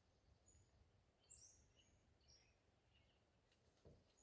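Faint, short, high bird chirps a few times over near silence, with a soft low thump near the end.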